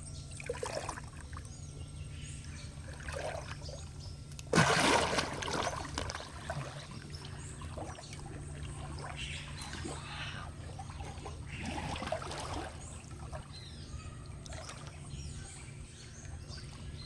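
Water splashing and trickling, with one loud splash about four and a half seconds in. Faint bird calls sound over a steady low hum.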